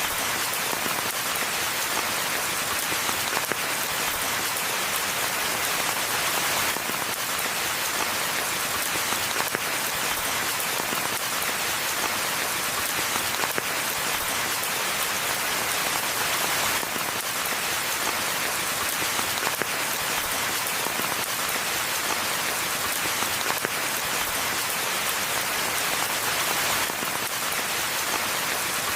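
Steady rain falling on a forest path and its foliage, a continuous even patter of drops.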